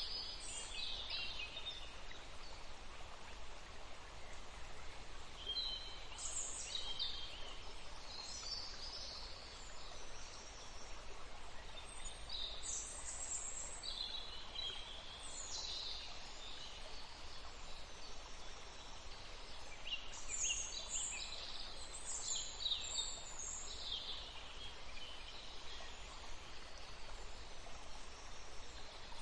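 Birds singing and calling: short high chirps and trills come in scattered clusters, over a steady background hiss.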